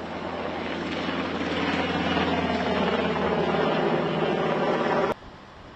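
Aircraft engine running with a steady hum, growing louder over the first two seconds, then cut off abruptly about five seconds in.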